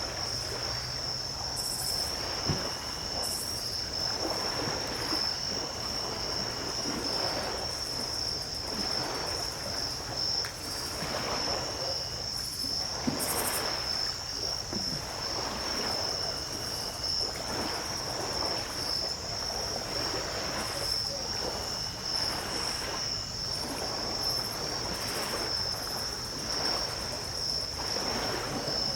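Ocean surf washing onto a beach at night in a steady, swelling hiss, under an unbroken high-pitched trill from a chorus of insects. A second, lower insect buzz comes and goes every few seconds.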